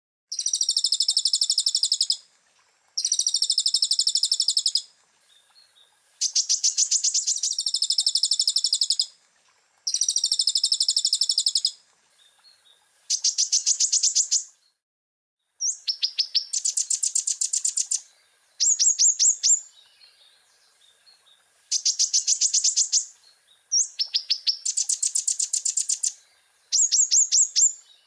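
Olive-backed sunbird (kolibri ninja) singing: about ten high, rapid trilled phrases, each one to three seconds long, with short pauses between them.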